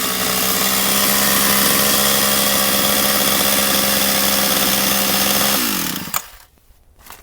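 Stihl 031AV two-stroke chainsaw idling steadily, then switched off about five and a half seconds in, the engine note falling as it runs down to a stop, with a sharp click just after. The saw is holding its idle on a new carburetor fitted to cure a start-then-stall problem.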